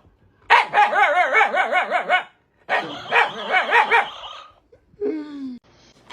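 A dog vocalising: two long cries that waver quickly in pitch, then a short cry falling in pitch near the end.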